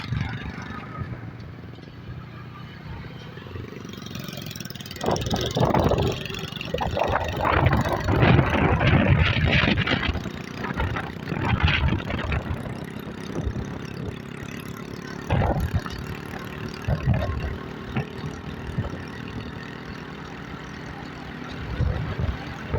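Yamaha YBR 125 motorcycle's single-cylinder four-stroke engine running while riding, with loud irregular rushes of wind noise on the microphone, strongest about five to twelve seconds in.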